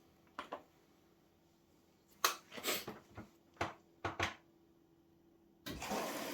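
A few separate clicks and knocks, then near the end the washing machine's water inlet solenoid valve opens and water starts rushing in with a steady hiss as the first fill begins.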